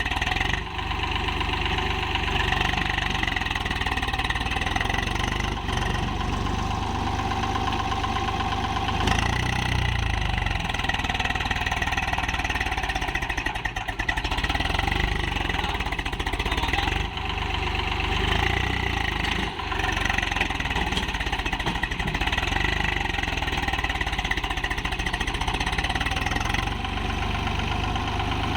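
Swaraj tractor's diesel engine running steadily, with a few brief dips in loudness.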